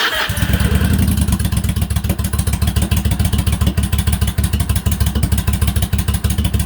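2004 Yamaha V-Star 1100's V-twin being cold-started on choke. The starter engages and a fast, lumpy engine beat runs for about seven seconds, then cuts off abruptly.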